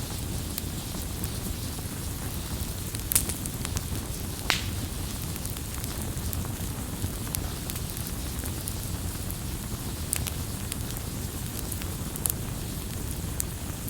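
Wood campfire burning with a steady low rumble and hiss, broken by scattered sharp crackles and pops, the loudest about 3 and 4.5 seconds in.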